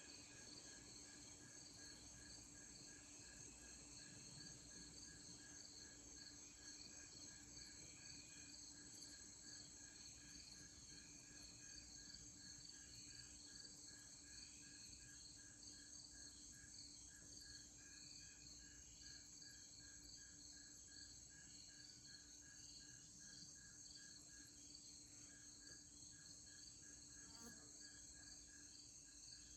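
Faint evening chorus of crickets and other night insects: a steady high trill with an even pulsed chirp about twice a second, over a low steady hum.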